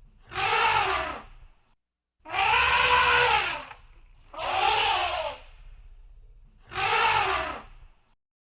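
Elephant trumpeting: four loud, brassy calls of about a second each, roughly two seconds apart, each rising and then falling in pitch.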